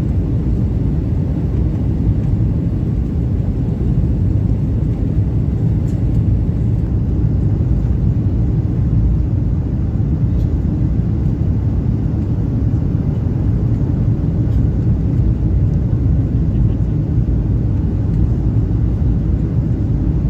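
Steady rumble of engine and airflow noise inside the cabin of a Boeing 737-800 with CFM56-7B turbofans, even and unchanging throughout.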